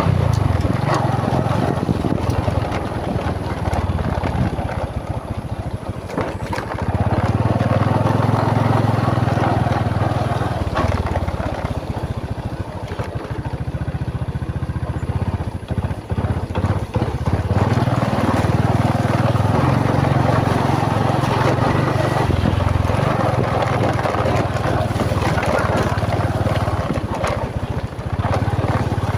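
Motorbike engine running while riding, its low hum shifting in pitch now and then as the speed changes, under steady noise of the ride.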